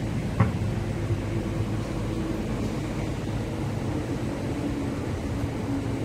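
Steady low hum and rumble of an MTR East Rail Line R-train electric multiple unit standing at a station platform, its onboard equipment running. A short click comes about half a second in.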